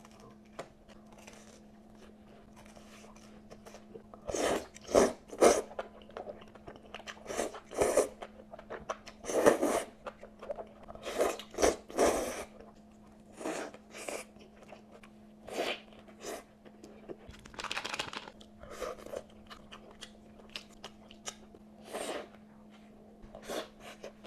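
A person biting into and chewing crunchy food close to the microphone, in irregular crunches that begin a few seconds in, over a faint steady hum.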